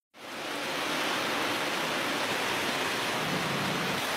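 Rain falling steadily on wet ground, an even hiss that fades in over the first half second.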